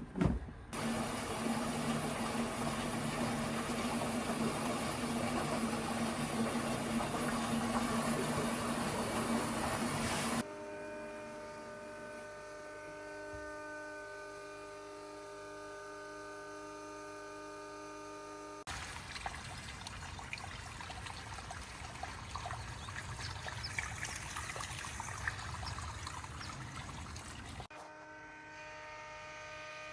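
Water rushing out through a water heater's drain valve during a sediment flush, in cut-together clips. A loud, even rush lasts about ten seconds and gives way abruptly to a quieter steady hum with several tones; the rush returns later and cuts off near the end, where the hum comes back.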